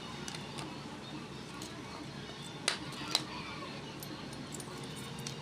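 Two sharp clicks or knocks about half a second apart, over a steady background of room noise and faint voices.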